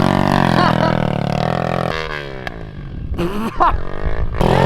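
Pit bike's small engine running steadily, then its pitch slides down and the sound fades as it slows, before it comes back steady and loud near the end.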